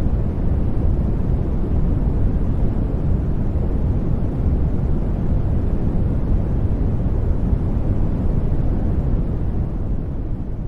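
Steady sleep noise played as a background track, heavy in the low end so it sounds like a deep, even hiss rather than a bright one. It starts to fade out near the end.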